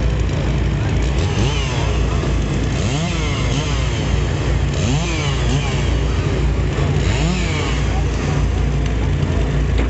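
Firewood equipment engines running: a steady low engine drone with a second, higher engine revving up and falling back several times.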